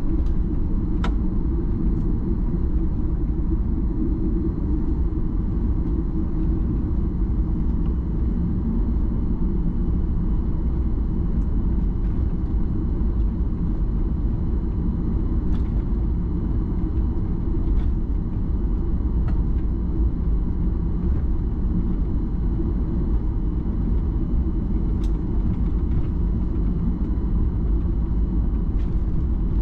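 Cabin noise inside a Boeing 737-800 airliner: the engines and airflow make a steady low rumble with a faint steady whine above it, and a few light clicks now and then.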